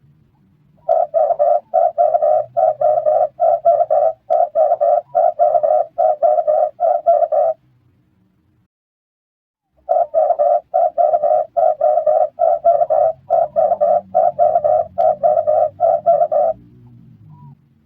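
Red turtle dove cooing: two runs of quick, evenly spaced coos, about three a second, each run lasting about six seconds with a short pause between them.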